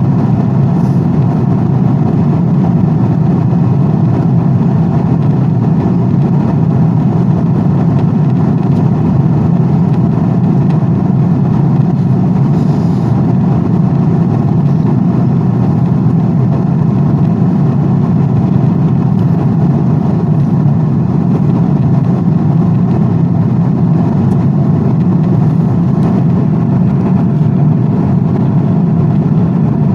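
Steady, unchanging plane noise: a dense, even rush with most of its weight low down.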